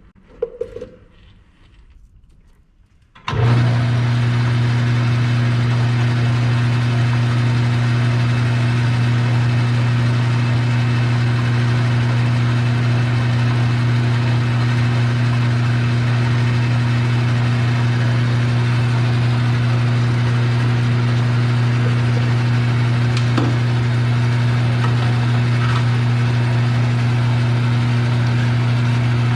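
An electric shop machine starts about three seconds in and runs steadily with a strong low hum, while the part is being shaved down at its end.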